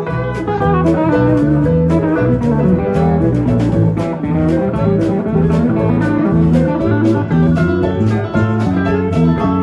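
Live band playing an instrumental passage with no singing: guitar to the fore over bass, keyboards and drums, with steady, evenly spaced drum and cymbal hits.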